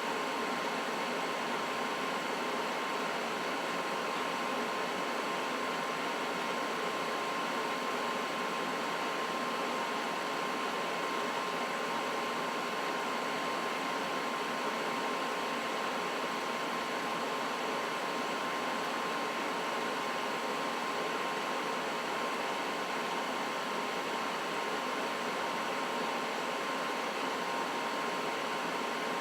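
Trane XB80 furnace running steadily: an even rush of moving air with a faint steady whine over it, unchanging throughout.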